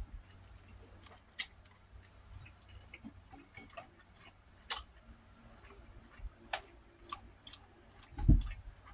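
Scattered small clicks and ticks of eating, mouth and food sounds while chicken is finished off, with one short, loud low thud near the end.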